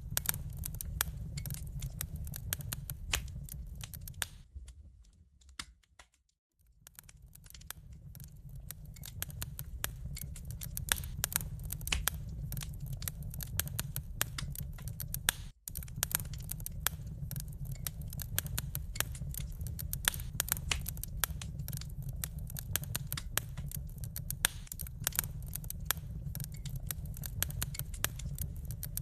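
Wood fire crackling: dense irregular pops and snaps over a low steady rumble. It fades almost to silence about five seconds in and builds back up, with a brief cut-out about halfway through.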